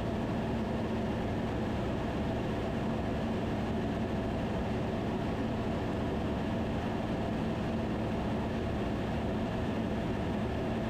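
Steady drone of a Van's RV-10's piston engine and propeller in flight, with an even low hum that does not change.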